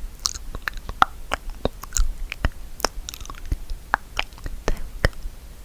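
Close-miked ASMR trigger sounds: irregular sharp taps and clicks, about two or three a second, some with a brief ringing tone.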